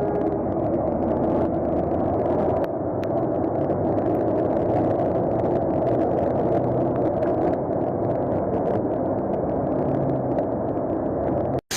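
Steady, muffled rumble of a running vehicle, with most of the sound in the low and middle pitches.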